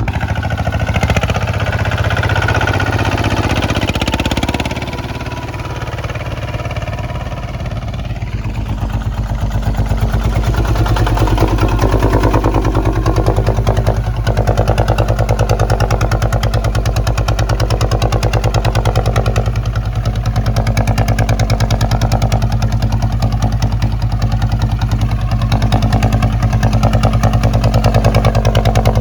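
Kubota ZT 155 tractor's single-cylinder diesel engine running steadily while plowing, with a fast, even firing beat. It drops a little in level for a few seconds near the start, then runs louder for the rest.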